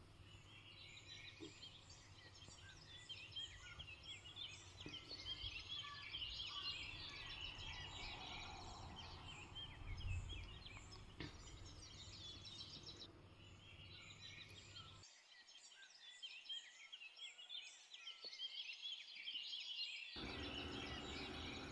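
Faint chirping of many small birds, short rising and falling calls overlapping throughout, over a low background rumble that drops away for a few seconds near the end.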